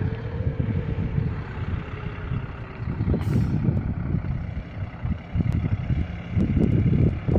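Wind buffeting the microphone: an uneven, gusty low rumble that swells and dips, with a brief hiss about three seconds in.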